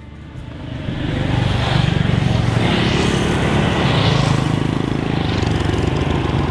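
Motorbike engine running steadily while riding, with wind rushing over the microphone; it fades in over the first second or so.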